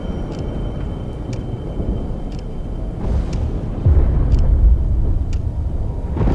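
Deep, continuous rumbling of a violent storm, swelling louder about four seconds in, with faint ticks about once a second.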